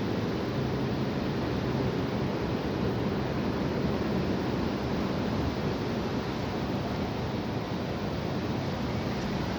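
High wind blowing, a steady rushing noise with wind rumbling on the microphone.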